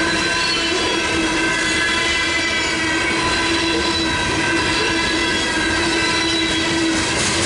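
Loaded covered hopper cars of a BNSF grain train rolling steadily past on steel rails, with wheel and rail noise and steady high tones held over it. The crossing's electronic bells ring along with the passing train.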